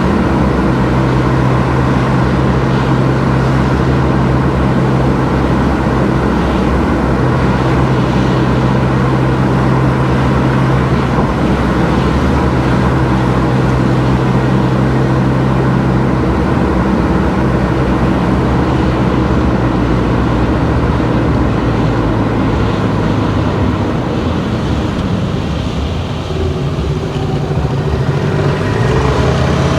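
Car driving at a steady speed: continuous engine and road noise, easing off briefly about 25 seconds in and picking up again near the end.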